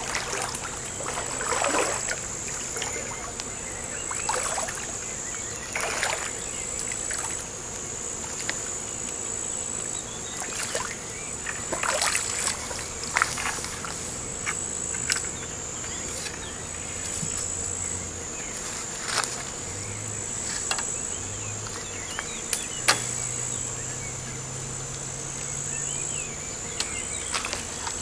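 Insects singing in a steady high trill, with scattered short water sounds at the waterside and a few sharp clicks, the sharpest about 23 seconds in.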